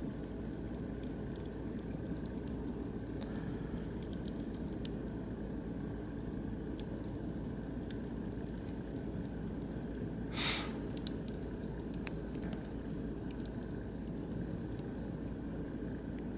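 Oak and beech logs burning in a barbecue grill, crackling with scattered sharp pops over a steady low rush, with one louder, brief crackle about ten seconds in.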